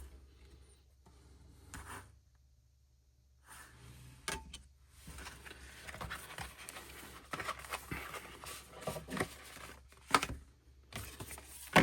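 Paper and card album inclusions being handled: rustling with light taps, starting a few seconds in, with a sharp click near the end.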